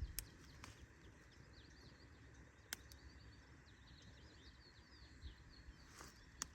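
Faint birdsong from small birds: many quick, high chirps and twitters, over a low rumble. A few sharp clicks come at about the start, near the middle and at the end.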